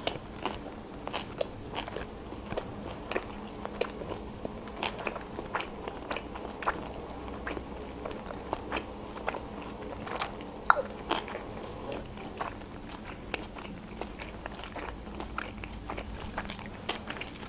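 Close-miked chewing of a mouthful of hot sushi roll: a string of irregular wet crunches and mouth clicks, about one or two a second.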